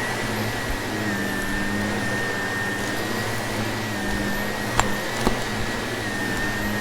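Vacuum cleaner running steadily with a constant high motor whine, sucking up crunchy debris; two sharp clicks about five seconds in as bits are picked up.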